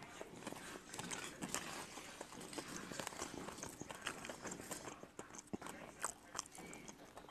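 Faint chewing, with small clicks and crackles as fingers pick the thin scaly skin off a steamed ma-ku fruit.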